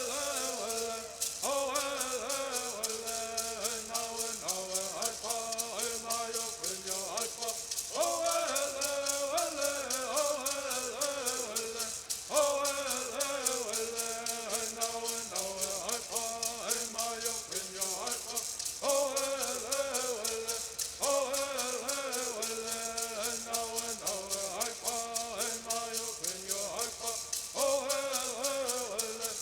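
Native American bird singing: voices singing in unison to the steady, rapid shaking of gourd rattles, the song running in phrases that start over every few seconds.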